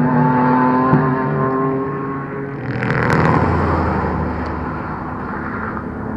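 A car's engine running at speed on a race circuit, with a rushing burst of noise about three seconds in, then a steadier, lower engine note.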